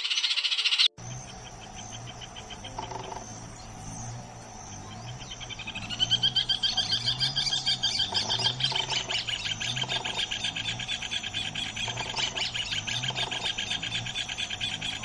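A rapid, pulsed animal trill, high in pitch, that builds about five seconds in and keeps going densely, with a few lower notes scattered through it and a low wavering hum underneath. At the very start a short loud noisy burst cuts off abruptly.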